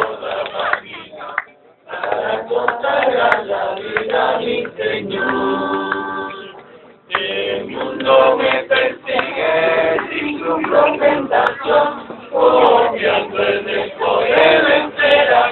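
A group of voices singing together, with two short breaks between phrases.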